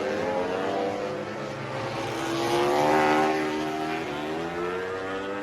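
Racing motorcycle engine passing by: the note swells to its loudest about three seconds in, then drops in pitch and fades.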